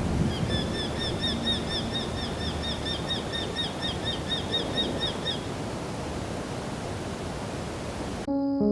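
A bird calling in a rapid series of short, sharp notes, about five a second, for about five seconds, over a steady outdoor noise haze. Music comes in abruptly near the end.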